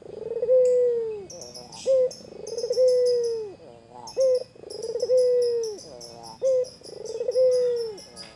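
White ringneck (Barbary) dove cooing over and over: a short clipped note, then a long, drawn-out coo that drops off at the end, repeated about every two and a half seconds. Thin high chirps from small birds run alongside from about a second in.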